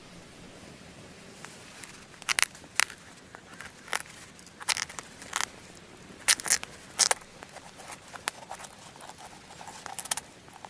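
Dry leaves and sticks rustling and crackling as they are handled, a string of about a dozen sharp, irregular crackles spread over several seconds.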